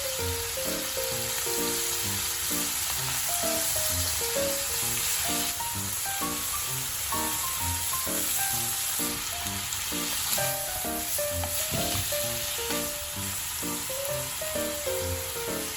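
Happosai stir-fry sizzling steadily in a hot pan, a continuous hiss, with background music of short, evenly paced notes over it.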